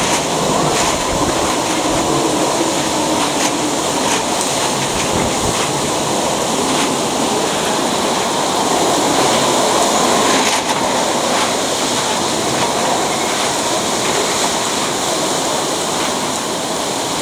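Steady loud rushing storm noise during a typhoon, with a few faint ticks scattered through it.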